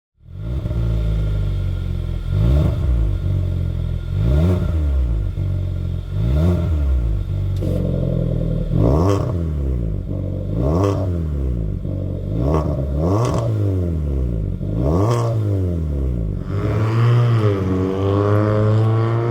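Kia K3's custom electronic valved exhaust as the engine is blipped repeatedly, each rev rising and falling about every two seconds, with sharp pops in the exhaust on several of them. Near the end it is held up at higher revs for a couple of seconds.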